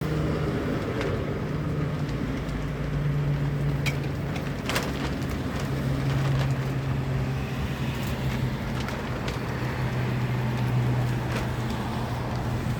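Husqvarna K970 power cutter's two-stroke engine running at a steady speed, its pitch drifting slightly, with a few sharp clicks over it.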